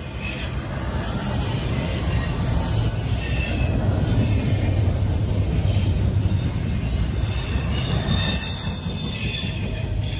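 Double-stack intermodal freight train's well cars rolling past: a steady rumble of steel wheels on rail, with faint brief high-pitched wheel squeals now and then.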